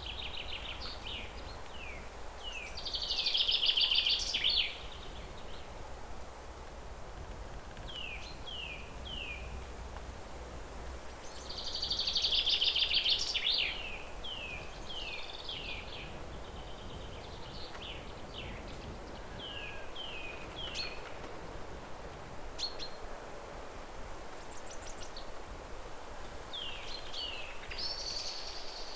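Songbird song: two loud, dense trilled phrases, about 3 seconds and 12 seconds in, each followed by a run of short down-slurred chirps, with further scattered chirps later and a brighter phrase near the end. A steady low rumble of outdoor background noise lies underneath.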